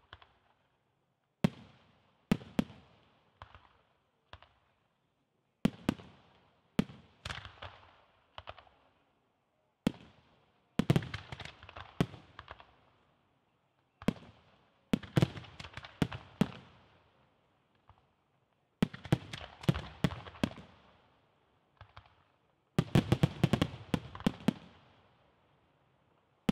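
Aerial firework shells bursting in irregular clusters, each sharp bang trailing off over a second or so. A fast volley of bangs comes near the end.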